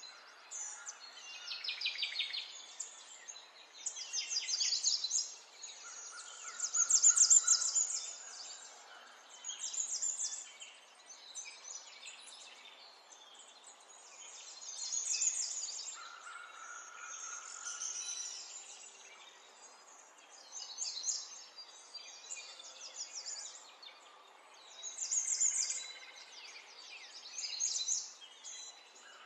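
Small birds chirping and singing: quick high trills and chirps coming every second or two over a faint hiss.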